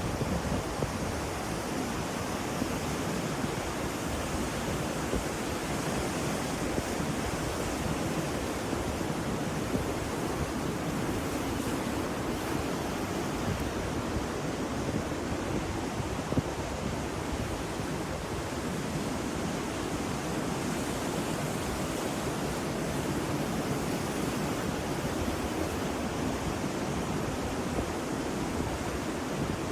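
Ocean waves: a steady wash of surf noise with only gentle swells in level.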